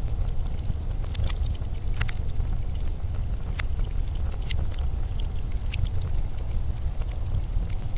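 Winter wind ambience: a steady, gusting low rumble, with scattered sharp crackles and ticks over it.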